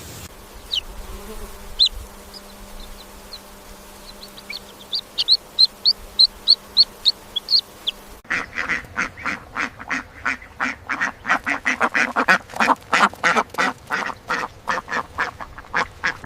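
Birds peeping in short high chirps that speed up, then from about halfway a group of ducks quacking loudly and rapidly, several calls a second.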